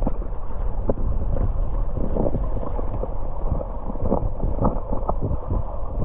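Fast river water rushing, with wind buffeting the microphone and a few brief irregular splashes.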